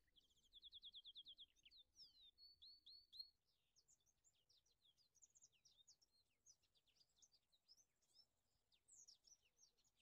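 Faint birdsong: a rapid trill of repeated high notes in the first second or so, then a run of varied short chirps and sweeping whistles.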